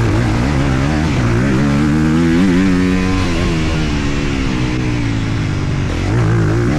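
Honda CRF250R single-cylinder four-stroke motocross engine under way, its revs repeatedly climbing and dropping as it is ridden, with wind rushing over the microphone.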